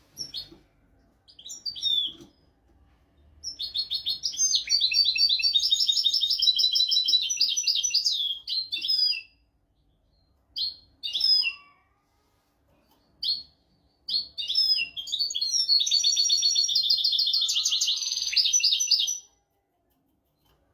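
European goldfinch singing: two long, fast twittering song phrases of about five seconds each, with a few short single chirps before and between them.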